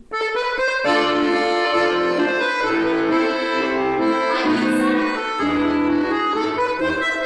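Accordion playing a folk-dance tune with sustained chords and melody, starting abruptly right at the beginning.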